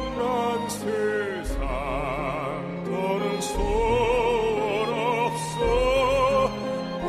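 Soprano singing a slow Korean classical-crossover ballad with wide vibrato on long held notes, over instrumental accompaniment.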